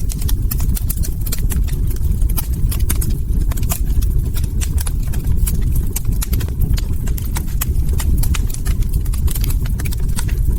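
Wood log fire crackling, with many irregular sharp pops and snaps over a steady low rumble.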